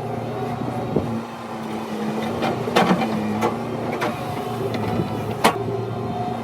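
Excavator's diesel engine running steadily under digging load, with several sharp knocks and clatters as it works the ground; the loudest knock comes about five and a half seconds in.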